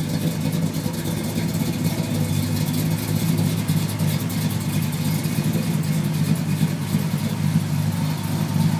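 A 383 stroker small-block V8 idling steadily through dual Flowmaster mufflers.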